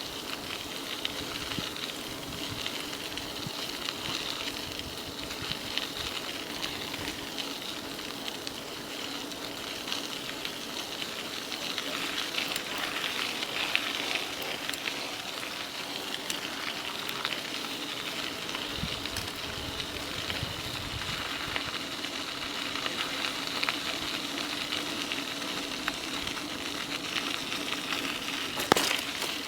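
Converted e-bike rolling along a trail: a steady hiss of the tyres on the path with a faint steady hum, from its Bafang BBS02 mid-drive motor, underneath. A single sharp click near the end.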